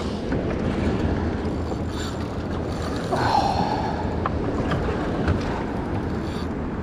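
Wind buffeting the microphone over waves and water noise on a small fishing boat, with a short high tone about three seconds in.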